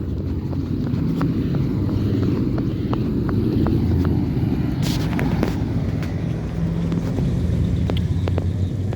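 Car engine running with a steady low rumble, with scattered light clicks and a brief hiss about five seconds in.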